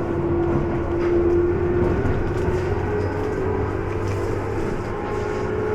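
Electric passenger train running, heard from inside the carriage: a steady rumble with a held tone over it.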